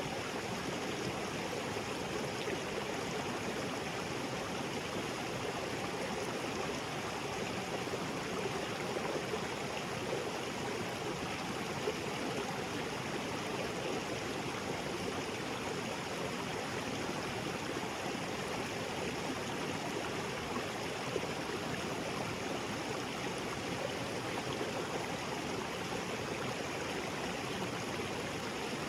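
Small waterfall splashing into a rocky jungle creek, a steady, even rush of falling and flowing water.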